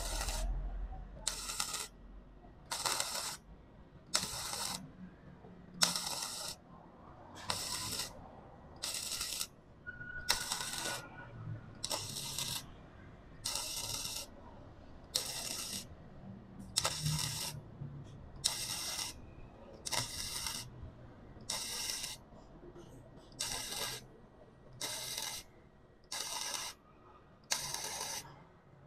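Lucky Star 285S MIG welder's arc on thin box-section steel, struck in short stitch-welding dabs of about half a second, roughly one every one and a half seconds. The thin wall is welded in dabs like this so that it does not burn through.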